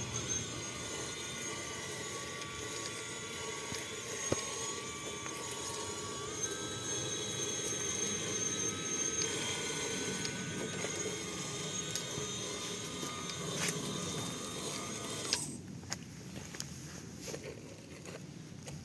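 Electric drive motor and geared Lesu axles of a 1/14-scale RC Fendt 926 tractor whining steadily as it drives, the pitch stepping up slightly partway through. The whine cuts off suddenly about three-quarters of the way in, leaving faint clicks.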